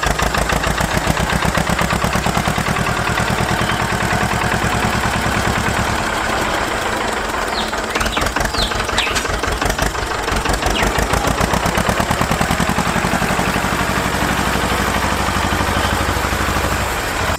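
An engine running steadily with a fast, even beat, cutting in abruptly and holding an unchanging speed. Faint bird chirps are heard about halfway through.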